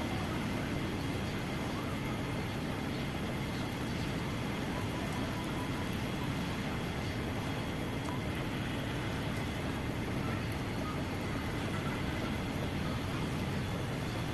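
Steady low rumble of heavy port machinery and vehicles, with faint constant whines above it and no distinct events.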